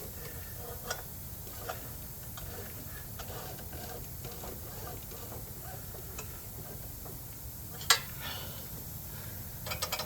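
Scattered light metallic clicks and taps from hand work on a small engine's valve gear, set while checking valve clearance. One sharper click comes about eight seconds in and a quick run of clicks near the end, over a steady low hum.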